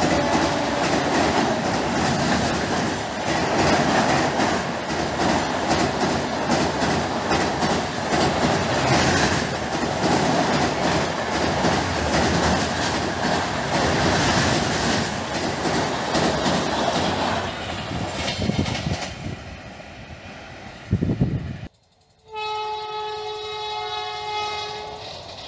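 Passenger train coaches rolling past close by over a rail bridge, a steady rumble and clatter of wheels on rail joints that fades out in the last third, with a short thump just before it stops. Then an electric locomotive horn sounds one long, steady note for about two and a half seconds.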